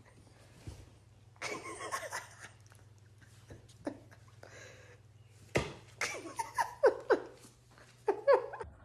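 A person laughing in short bursts: briefly about a second and a half in, a longer run of giggles around six to seven seconds, and again near the end. A faint steady hum lies underneath.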